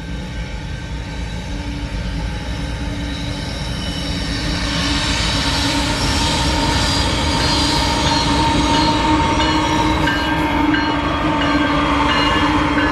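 Diesel-led freight train approaching and passing: a low rumble that grows louder over the first five seconds and then holds steady, with high, steady squealing tones from the wheels over it.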